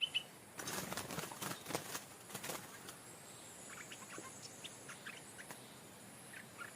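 Faint, short bird chirps scattered over quiet outdoor background, with a run of soft rustling and clicking in the first couple of seconds.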